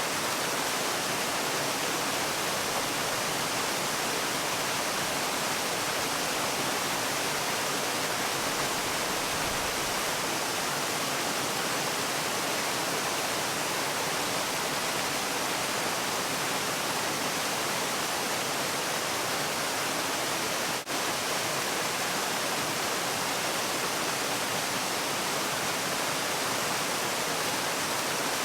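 Waterfall: a steady, even rush of falling water, with one brief drop in level about three-quarters of the way through.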